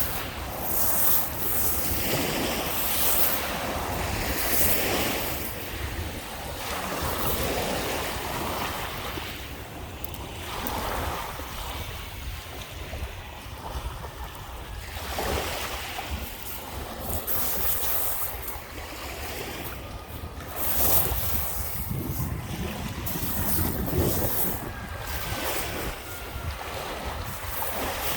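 Small waves breaking and washing up on a Lake Michigan beach, surging every few seconds, with wind rumbling on the microphone.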